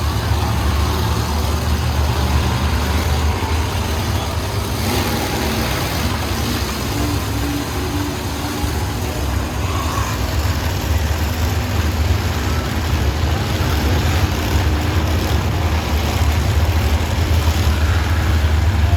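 Monster truck engine running with a steady, heavy low rumble.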